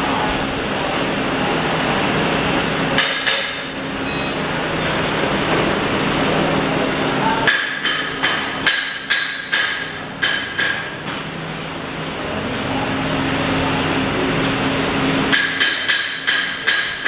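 A hammer striking metal in quick repeated ringing blows, about three or four a second, in two runs: one starting about halfway through and one near the end. Before the first run, a steady hum and hiss.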